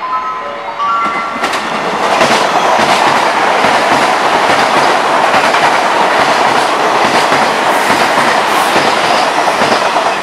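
JR West 381 series tilting limited express electric train passing at speed close by: a loud rush of wheels and air with rapid clicks of wheels over rail joints, building about two seconds in and holding as the cars go by. A few short pitched tones at different notes sound at the very start.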